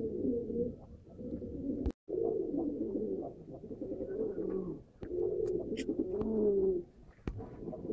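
Domestic pigeons cooing: a run of low, wavering coos, each about a second long, with a few sharp clicks between them.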